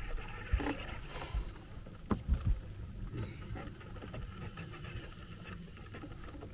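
Small fishing boat at rest on the water: a low rumble with a few dull knocks, a single one about half a second in and a short cluster about two seconds in, typical of gear being handled against the hull.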